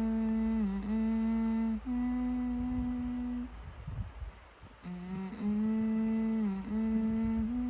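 A person humming a short tune with the mouth closed: a phrase of three held notes, the last one a little higher, then after a short pause the same phrase again.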